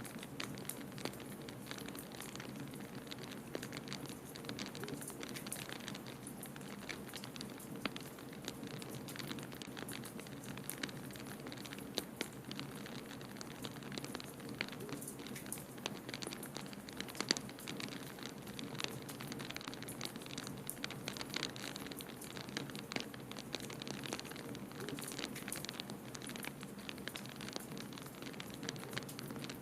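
Wood fire crackling in a fireplace, with many small irregular pops and snaps, over a steady low rush of blizzard wind.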